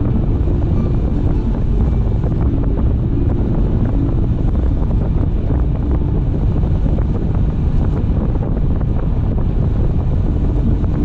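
Car driving at speed, with steady wind buffeting on the microphone over a deep road and tyre rumble.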